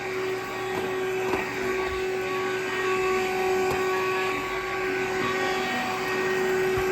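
Cordless vacuum cleaner's motor running steadily: an even whine over a hiss of rushing air.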